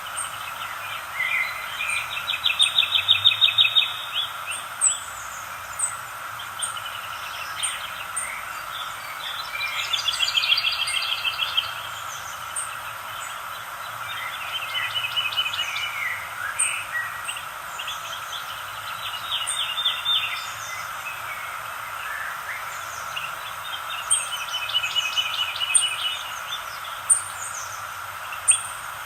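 Songbirds singing: a rapid trilled phrase comes every four or five seconds, with short high chirps scattered between, over a steady background hum.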